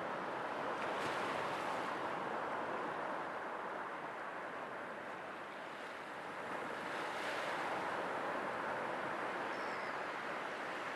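Sea waves surging and washing in, a steady rushing that eases off around the middle and swells again.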